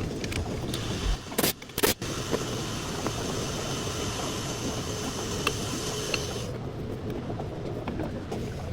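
Hyundai Accent with a steady low rumble and two sharp knocks about a second and a half in. A faint high steady squeal from the front brakes starts about two seconds in and cuts off suddenly about six and a half seconds in.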